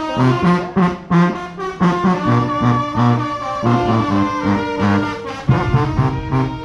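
Junkanoo band playing live: brass horns (trombones and trumpets) carry a melody over a driving beat of percussion hits.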